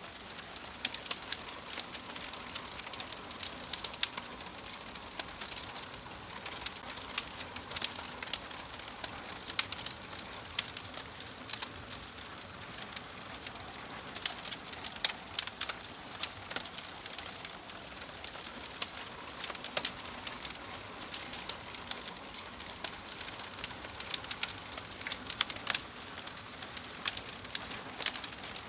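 Wood fire crackling in a fireplace: a steady soft hiss with frequent irregular pops and snaps.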